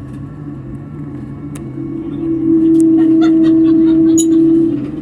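Airliner cabin noise: a steady low drone from the aircraft. About two seconds in, a loud steady hum comes in, lasts about two and a half seconds, then stops, with a few light clicks during it.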